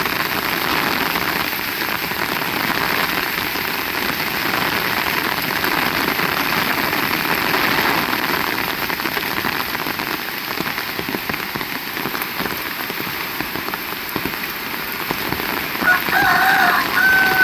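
Heavy rain falling steadily on surfaces. Near the end a rooster crows once, a wavering call that levels off and falls away.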